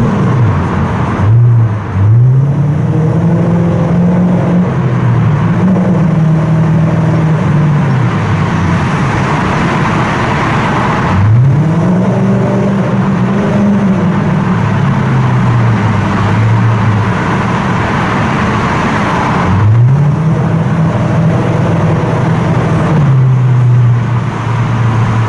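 Toyota Crown Majesta (S180) V8 through a full straight exhaust with a Zeus Speed Margay rear section, very loud, echoing in a tunnel. The car accelerates three times, the note climbing steeply in pitch, holding, then falling back as it eases off.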